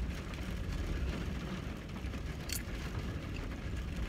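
A mouthful of burger being chewed, over a steady low rumble in a car's cabin, with one brief crackle about two and a half seconds in.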